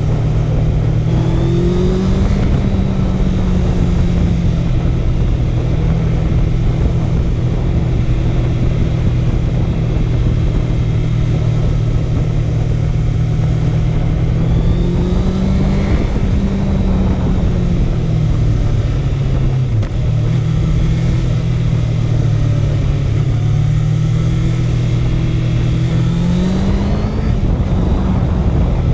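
Honda CB650F inline-four motorcycle engine running under way at a steady cruise. Its pitch rises as the rider accelerates three times (about two seconds in, midway, and near the end) and falls back as the throttle eases after each.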